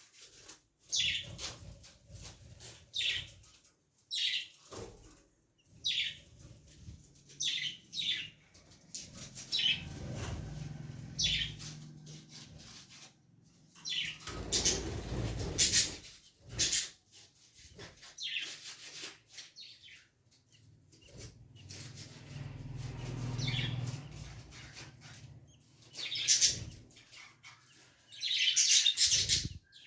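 Young budgerigar chirping in short, repeated high calls, with a few longer stretches of rustling noise in between.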